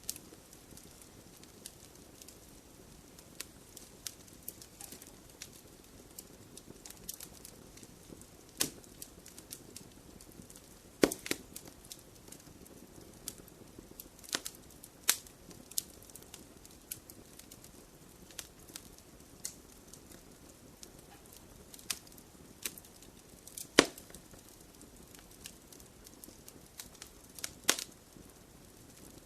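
Wood fire burning in a fireplace: a low steady hiss with irregular sharp crackles and pops, a few of them loud.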